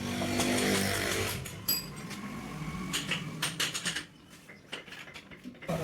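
Metal tools and gearbox parts clinking and knocking as they are handled, one clink ringing briefly about two seconds in, over a low hum in the first second.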